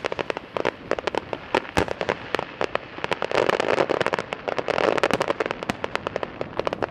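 Fireworks display bursting: a rapid, irregular stream of sharp cracks and pops, thickening into dense crackling from about three to five and a half seconds in.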